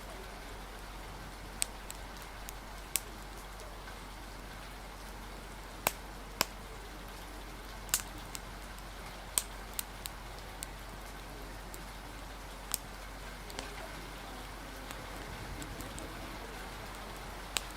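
Steady hiss of rain, broken by about ten sharp, irregular pops of a crackling wood fire.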